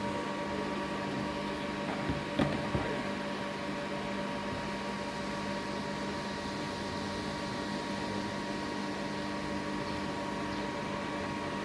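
Single-phase to three-phase step-up transformer running under load while charging drone batteries, giving a steady electrical hum made of several constant tones. A few light clicks come about two to three seconds in.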